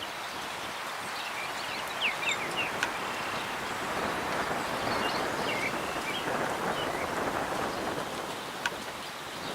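Breeze rushing through the branches and leaves of an old windbreak tree line, a steady noise that swells through the middle. Small birds call over it: a quick run of short notes about two seconds in and a few chirps about five seconds in.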